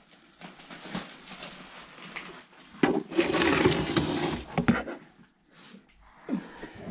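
Indistinct handling noise in a small room: knocks and clicks as things are moved about, loudest for about two seconds in the middle.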